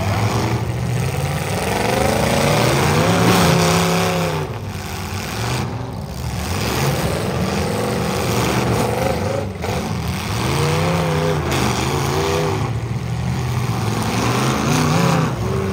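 Full-size demolition derby cars' engines revving hard, their pitch rising and falling again and again as they accelerate and back off.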